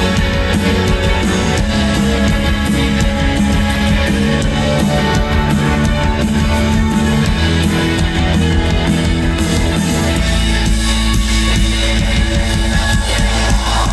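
Live indie band playing an instrumental passage of the song, with electric guitar and drums; from about ten seconds in, a low bass note is held under the guitars.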